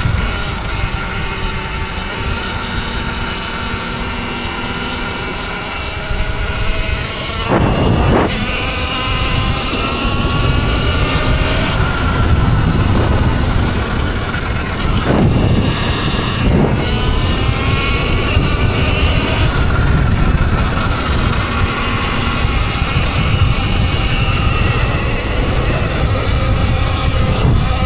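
Electric dirt bike motors whining while riding, their pitch rising and falling with speed, over heavy wind rumble on the microphone. A few brief rushes of noise cut across the whine.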